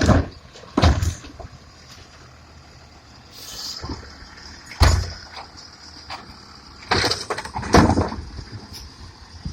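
A series of loud knocks and bangs: two just after the start, one near the middle, and a cluster of several toward the end, over a low background rumble.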